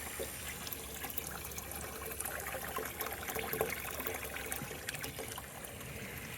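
Water trickling and splashing steadily from an electric pump's outflow as rainwater is pumped out of a boat.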